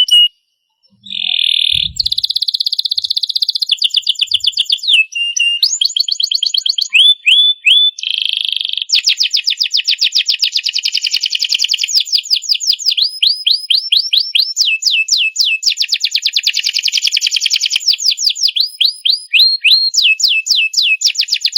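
Domestic canary singing a long, vigorous song of fast trills and rapidly repeated high chirps, breaking off for about a second near the start.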